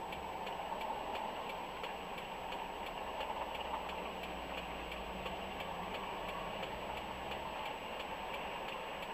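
A car's flasher relay clicking at a steady even rate inside the cabin, over the low hum of the engine idling.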